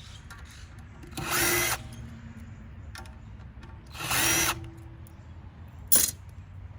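Cordless drill-driver running in two short bursts about three seconds apart, backing out screws from a tankless water heater's casing, then a brief sharp clack near the end.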